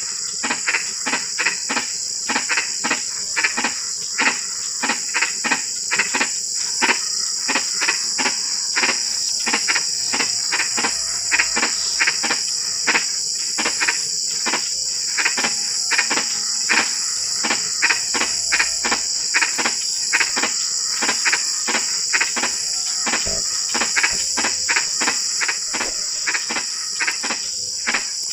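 Frogs calling in a chorus, short croaks repeating two or three times a second, over a steady high-pitched trill.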